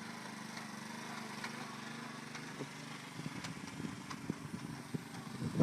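Small engine of a walk-behind road line-striping machine running steadily, with scattered clicks and knocks in the second half.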